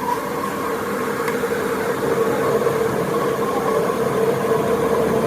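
A machine running steadily, with a constant hum that slowly grows louder.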